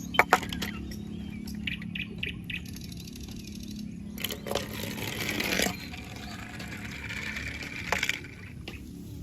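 Handling noises: a few light clicks and taps, a rustle a little past the middle, and another sharp click near the end.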